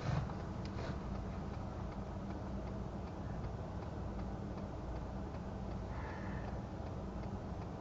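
Steady low rumble inside a parked vehicle's cabin, with faint regular ticking.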